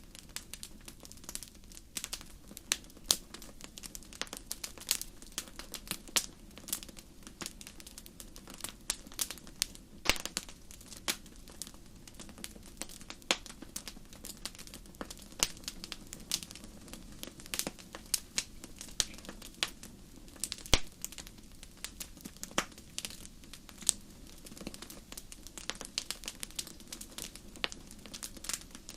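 Wood fire in a fireplace crackling: irregular sharp snaps and pops, several a second and some louder than others, over a low steady background.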